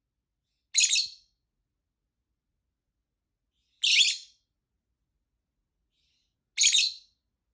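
Female rosy-faced (peach-faced) lovebird giving three short, loud, high-pitched calls, about three seconds apart.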